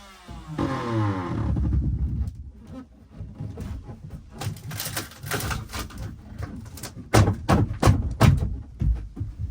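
A power tool spinning down, its pitch falling, then a scraping rush and a series of sharp knocks and cracks, loudest about seven to eight and a half seconds in, as the boat's stringer is broken out of the hull.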